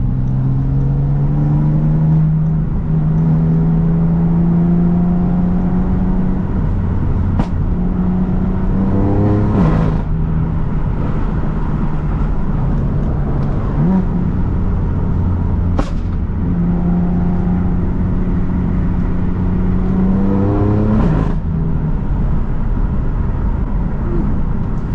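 BMW F80 M3's twin-turbo inline-six, fitted with a downpipe and single mid pipe, pulling on the road: the engine note climbs slowly and drops sharply at upshifts about ten and twenty-one seconds in. A few sharp clicks come through in between.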